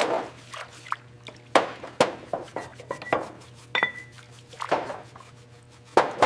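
A series of irregular sharp clinks and knocks, hard objects set down or tapped against each other, a few of them ringing briefly.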